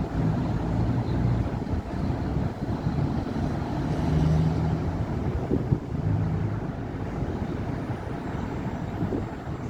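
City road traffic on a busy avenue: engines and tyres of passing cars and heavier vehicles make a continuous low rumble that swells and fades as vehicles go by. A brief sharp knock sounds a little past halfway.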